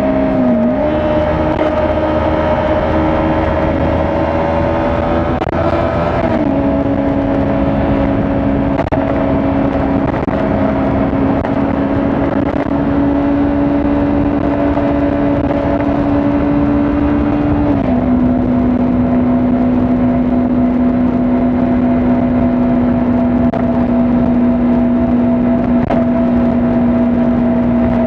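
Kawasaki Ninja 400 parallel-twin engine running at a steady cruise. Its note dips and recovers just after the start, then steps down in pitch twice, about six and eighteen seconds in.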